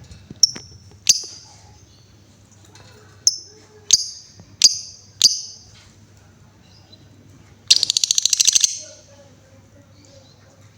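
Female lovebird calling: six sharp, shrill chirps in the first five seconds, then about a second of rapid pulsed chatter near eight seconds in, the fast 'ngekek' trill that lovebird keepers prize.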